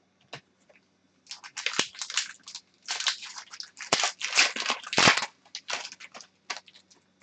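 A trading-card pack's foil wrapper crinkling and crackling in the hands, a dense run of sharp crackles that starts about a second in and lasts about five seconds.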